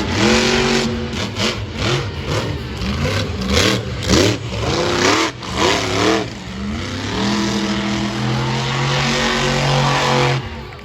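Monster truck engine revving hard in quick rising and falling bursts, then holding a steady high rev for a few seconds before cutting off near the end.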